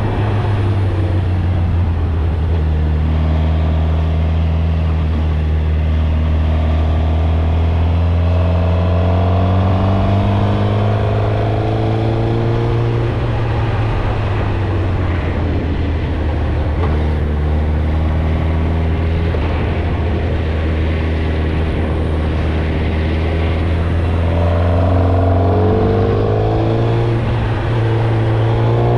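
Suzuki GSX-R1000 inline-four running through its stock exhaust on the move. The engine note climbs slowly, eases back about halfway through, holds steady, then rises again near the end.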